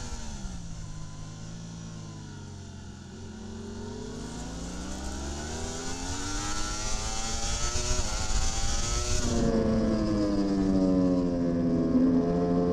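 Racing superbike engine heard on board. The revs drop as the rider brakes and shifts down, then climb steadily under acceleration. About nine seconds in the sound cuts abruptly to a louder engine that dips and then rises again.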